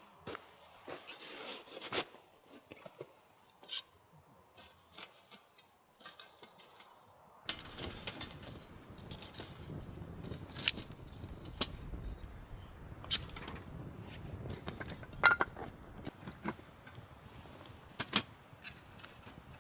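Small metal items clinking, tapping and scraping: camp cookware and utensils being handled, in scattered sharp knocks. About seven seconds in, a steady low background noise starts beneath the clinks.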